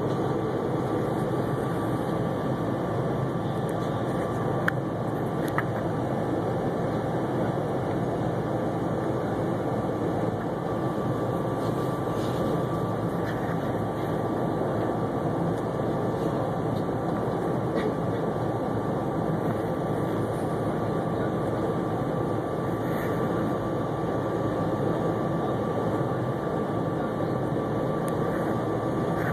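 Steady rumble of a moving SEPTA commuter train, heard from inside the passenger car, with a faint steady high hum over it.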